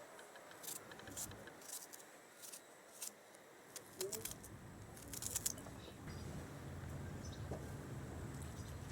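A series of light, sharp clicks and taps, scattered at first and then several close together about five seconds in; from about six seconds a low steady hum sets in.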